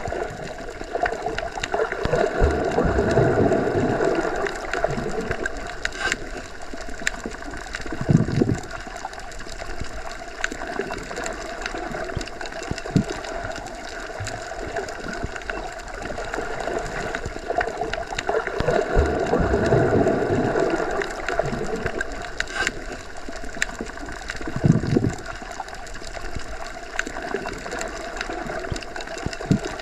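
Underwater ambience as heard by a submerged microphone in a pool or lake: a steady muffled rush and hiss that swells louder twice. Two short low thumps come about sixteen seconds apart.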